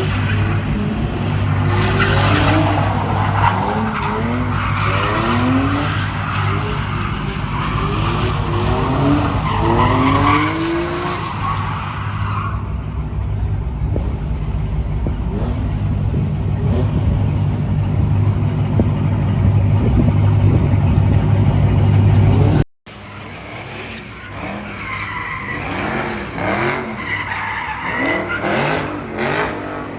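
Car engines revving hard with tyres squealing and skidding, repeated rising surges in engine pitch. The sound cuts off abruptly about three quarters of the way through and picks up again somewhat quieter.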